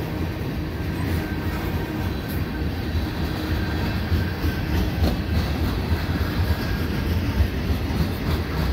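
Freight cars rolling past on two tracks: a CN freight's tank cars close by and a CP freight's auto racks beyond. Steel wheels make a steady low rumble on the rails, with an irregular clickety-clack over the rail joints.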